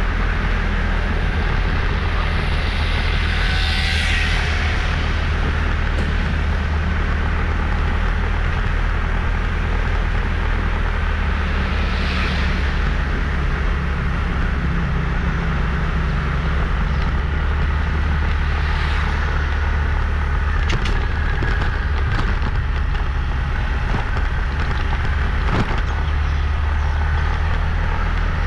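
A motorbike riding along a road: steady engine and road rumble. Brief swells of other traffic come about 4, 12 and 19 seconds in, and a few sharp clicks follow near the end.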